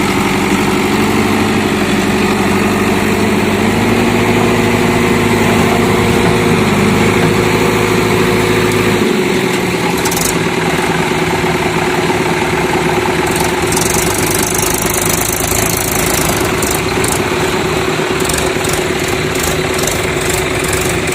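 Diesel engine of heavy farm or construction machinery running, its pitch rising and falling for the first nine seconds or so, then settling to a steady idle. Short, high rattling hisses come in the second half.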